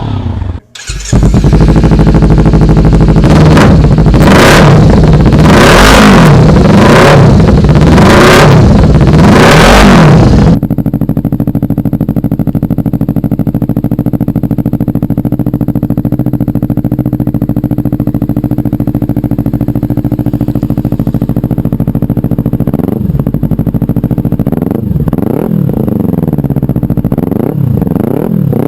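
Kawasaki Ninja 300's parallel-twin engine through an aftermarket exhaust, blipped hard about six times in quick succession. It then switches abruptly to a steadier idle of a slightly quieter bike, with a few short revs near the end.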